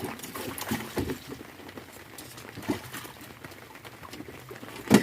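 Scattered knocks and rustling as a freshly caught grouper is handled in a small boat, with the loudest knock near the end.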